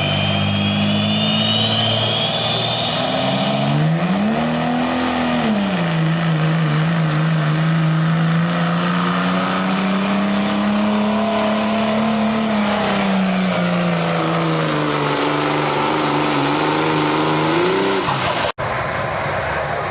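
Work-stock pickup truck pulling a sled, its engine run hard under heavy load with a high turbo whistle that climbs over the first few seconds and then holds a steady pitch. The engine pitch rises briefly about four seconds in and then holds. The sound cuts off abruptly near the end.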